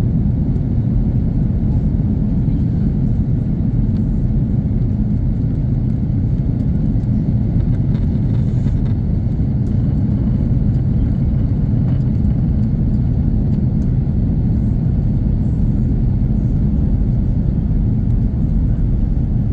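Steady low rumble of an Airbus A340-300 heard from inside the passenger cabin in flight: its four CFM56 jet engines and airflow over the fuselage, even and unbroken.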